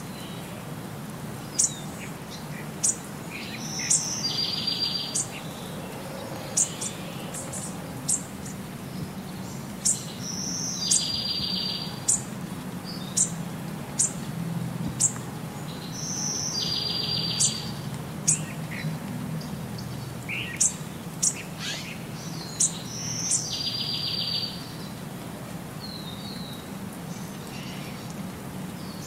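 Birdsong: sharp high chirps about once a second, and a short buzzy trill that comes back about every six seconds in the same shape, like a repeating loop, over a faint steady low hum.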